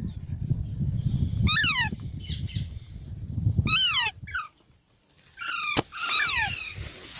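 Baby parrot calling: three harsh squawks that drop in pitch, the last a short run of calls, over a low rumbling noise in the first half. A sharp click comes just before the last calls.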